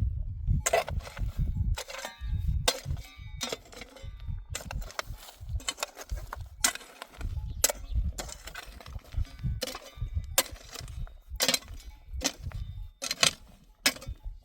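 Stones being knocked together and set in place by hand: irregular sharp clacks and knocks about once a second, over a low rumble.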